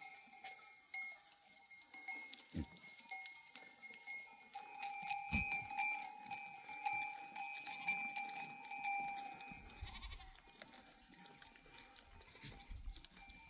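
Bells on a herd of sheep and goats clinking and ringing unevenly as the animals walk, busiest in the middle.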